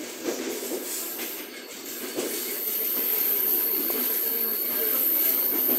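Running noise of a moving passenger train heard from inside the carriage: steady wheel-on-rail rumble and hiss. It grows louder about two seconds in, when a thin high whine joins.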